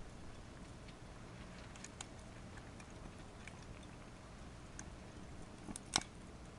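Wood fire crackling in a small secondary-combustion campfire stove: scattered sharp pops over a low steady rumble, with one louder crack about six seconds in.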